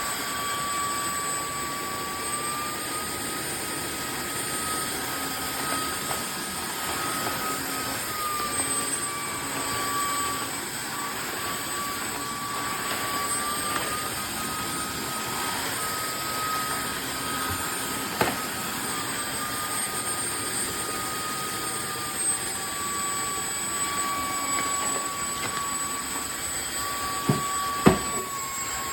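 Tineco cordless wet-dry floor cleaner's motor running with a steady high whine whose pitch shifts slightly up and down several times as the load changes. A few sharp knocks come near the end.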